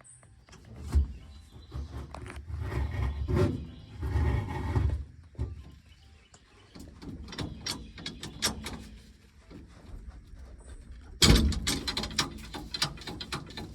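Clunks and metallic rattling from working the old truck's manual gear shift lever to find neutral, with a sudden louder clatter about eleven seconds in.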